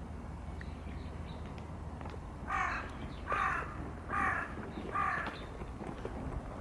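A crow cawing four times in an even series, each caw harsh and short, under a second apart.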